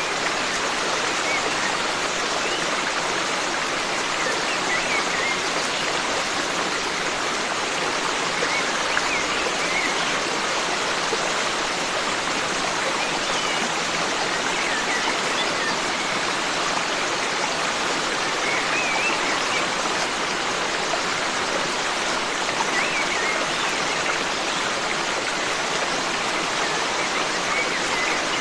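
Forest stream flowing steadily, with faint short bird chirps every few seconds.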